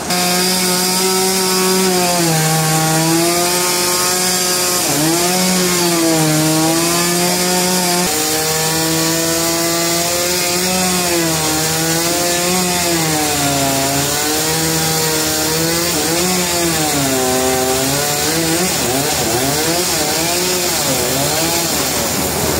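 An engine-driven saw running while cutting timber. Its pitch repeatedly sags and recovers as the blade takes load in the wood, with faster wavering near the end.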